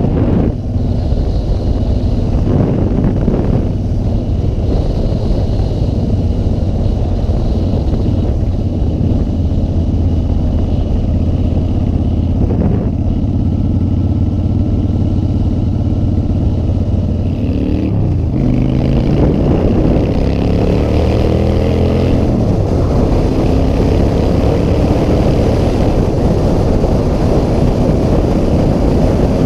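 Motorcycle engine running at a steady cruise. About two thirds of the way through, the revs climb and fall back several times in quick succession as the bike accelerates, then the engine settles into a steady, slightly higher note.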